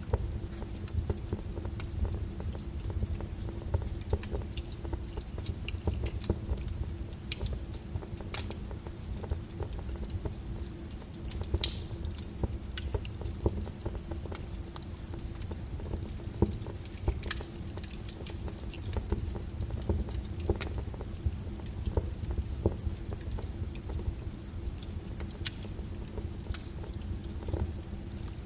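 Wood fire crackling in a fireplace: a steady low rumble with irregular small pops and snaps throughout, and a couple of sharper pops about twelve and seventeen seconds in. A faint steady hum sits underneath.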